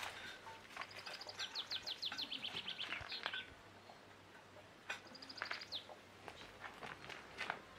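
Small birds chirping, with a fast trill of short high notes lasting about two seconds starting a second in, and a shorter trill around five seconds in. A light knock about three seconds in.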